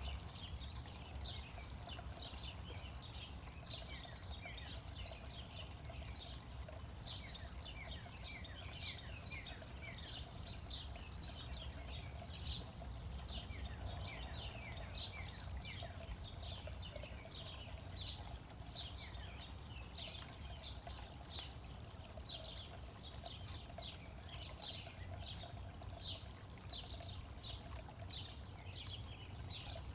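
Backyard birds chirping without pause, many short descending chirps overlapping one another, over a steady low rumble.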